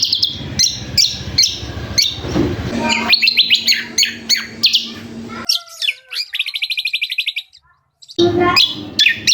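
A songbird singing a fast, busy song of sharp chirps and rapid trills, a song likened to that of the sikatan londo. It breaks off briefly near the end, then starts again.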